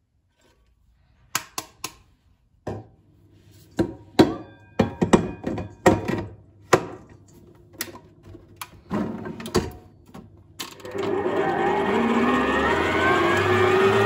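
A run of kitchen knocks and clinks from bowls and utensils being handled, then an electric kitchen mixer switches on about eleven seconds in and runs steadily, its pitch shifting as it works.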